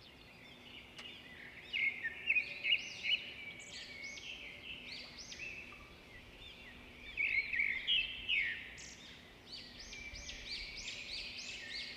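Birds chirping and singing, with many quick arching chirps that come in clusters, busiest a couple of seconds in and again over the last few seconds.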